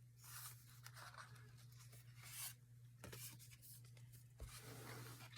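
Faint, irregular scratching and rubbing on paper, as of something being drawn or pressed across a journal page, over a steady low hum.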